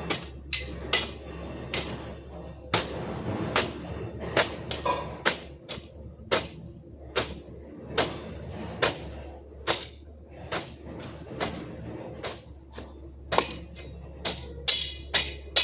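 Repeated sharp strikes of a hand gardening tool, about one a second, each with a short ring.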